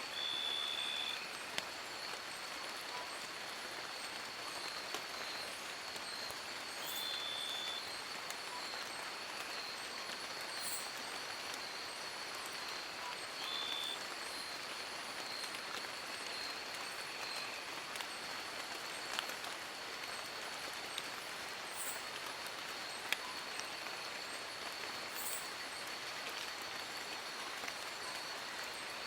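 Steady rain falling on forest leaves, with a few sharp drip ticks. A thin high tone runs throughout, and a short high call sounds three times, about seven seconds apart, in the first half.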